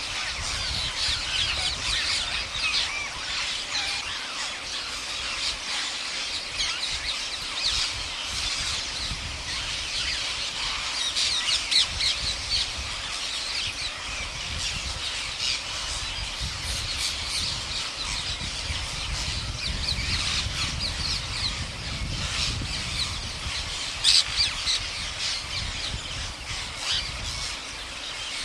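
A large flock of parrots squawking and chattering continuously, many short overlapping calls at once, over a low rumble.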